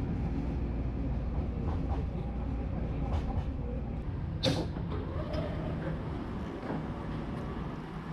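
Steady low rumble of a SkyTrain rapid-transit car running along the track, heard from inside the car, with a few light clicks and one brief sharp sound about halfway through.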